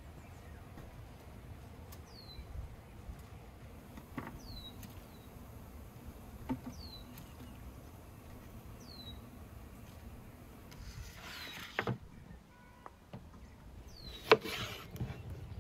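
A bird repeats a short, falling chirp about every two seconds over a low, steady rumble. Near the end a knife knocks sharply onto a wooden cutting board as it cuts through a lemon.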